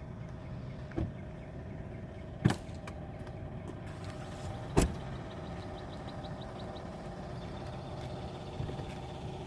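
Sharp clunks and clicks of a Jeep Grand Cherokee L's hood being released and opened: a light click about a second in, a louder clunk a couple of seconds later, and the loudest one near halfway, followed by a brief rattle of quick light ticks. A steady low hum sits underneath.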